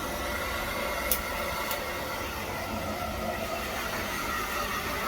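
Blow dryer running steadily on a dog's wet coat, with two short clicks about a second in.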